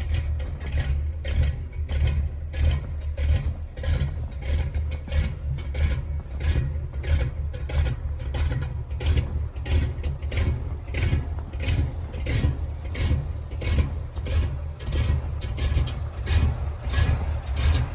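1983 Chevy K20 pickup's carbureted engine idling just after a cold start in freezing weather, fed by an Edelbrock 600 CFM carburetor with electric choke. It keeps running without stalling, with a rapid, uneven pulse.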